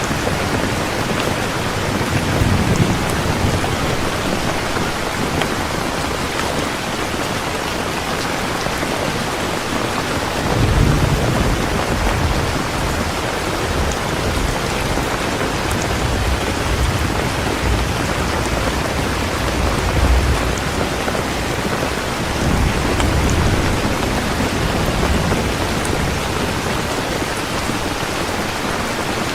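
Steady rain pouring down, an even hiss of falling drops, with several low rumbles of thunder swelling and fading, the strongest beginning about eleven seconds in.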